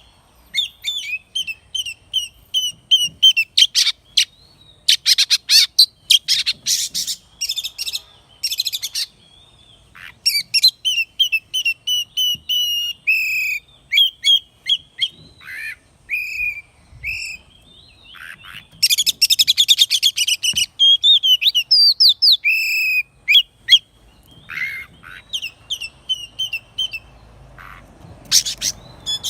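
Oriental magpie-robin singing a long, varied song: clear whistled phrases and quick high chips, broken by harsher, scratchy passages, one early on and another about two-thirds of the way through.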